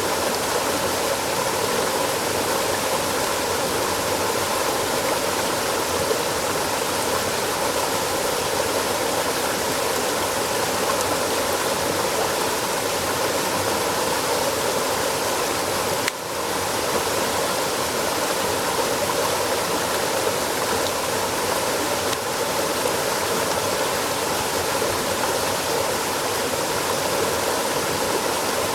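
Steady rush of flowing water, like a stream, with a brief dip in level about halfway through.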